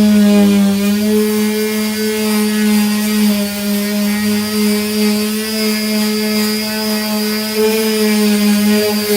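Electric power sander running steadily with a 240-grit disc, sanding body filler on a caravan panel, its motor giving a constant whine with small dips in pitch as it is pressed against the surface.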